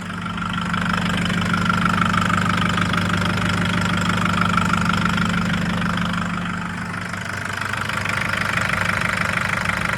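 2011 Nissan Patrol GU CRD's 3.0-litre common-rail four-cylinder turbo-diesel running with a loud, steady knocking clatter, typical of the fault the owner is chasing alongside loss of power and fuel-rail-pressure codes. It gets louder about a second in, eases near seven seconds, then rises again.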